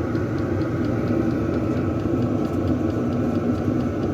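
Chinese diesel air heater running, a steady rumble of its burner and fan that covers the ticking of its fuel pump.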